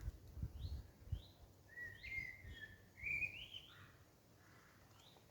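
Small songbirds chirping: short falling chirps repeated, with one bird singing a bright warbling phrase in the middle. A few dull low knocks in the first second or so.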